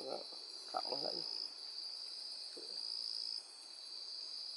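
A steady, high-pitched chorus of night insects trilling in the forest, swelling and easing slightly, with a brief voice murmur about a second in.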